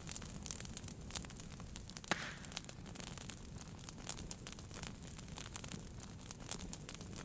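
Wood fire crackling in a fireplace: irregular sharp pops and snaps over a low steady rumble of the flames, with one louder pop and a brief hiss about two seconds in.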